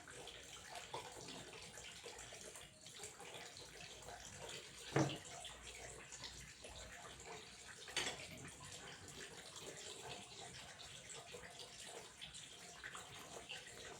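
Water running and trickling steadily, fairly quiet, with two brief louder sounds about five and eight seconds in.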